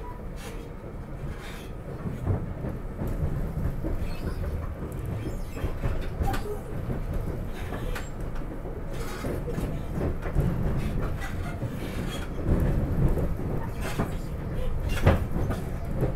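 Inside a moving SEPTA Regional Rail electric commuter car: a steady low rumble of the car running along the track, with irregular clicks and knocks from the wheels on the rails, a little louder toward the end.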